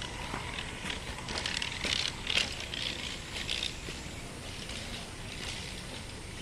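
Outdoor ambience of a wooded ravine: a steady low rumble of wind and water with a faint thin high whine, and a run of short hissing crackles in the first half.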